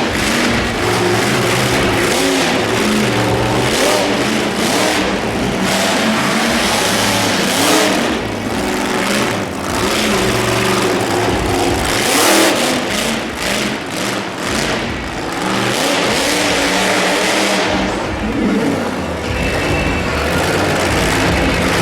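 Monster truck engine revving hard and easing off again and again, its pitch climbing and falling, with louder surges several times.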